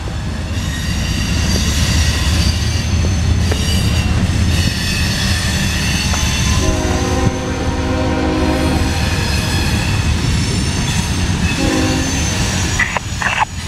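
Loaded coal hopper cars of a CSX freight train rolling past with a steady heavy rumble and wheel clatter, and high wheel squeal as the cars take the turn. A train horn sounds for about two seconds starting roughly seven seconds in, and again briefly near the end.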